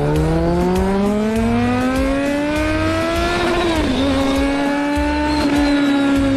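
Kawasaki Z900's inline-four engine accelerating hard, its pitch climbing steadily for about three and a half seconds, dipping briefly near four seconds as on a gear change, then holding and slowly falling. Background music with a bass beat plays underneath.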